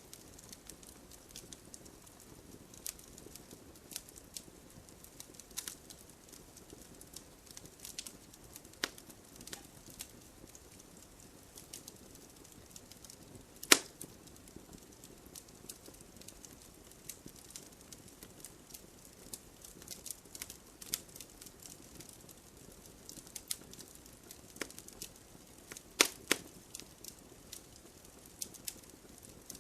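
Wood fire burning in a fireplace: a steady low rush of flames under frequent small crackles, with sharper log pops about halfway through and again near the end.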